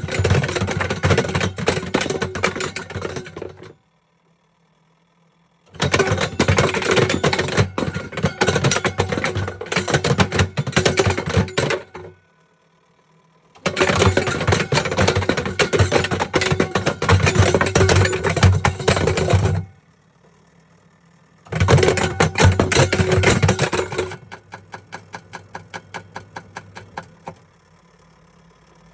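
Kettle tumbling and clattering against the inside of a running washing machine's drum, in loud bursts of several seconds broken by short pauses as the drum turns and stops. Near the end the clatter gives way to a quieter, even knocking about four times a second.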